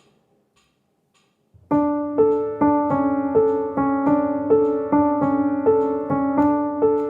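Piano playing a song intro: after about a second and a half of near silence, repeated chords are struck at roughly two a second, each left to ring.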